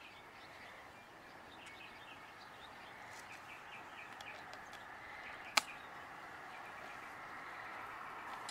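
Faint outdoor background with a few small bird chirps, and a single sharp click about five and a half seconds in. The background noise grows slightly louder toward the end.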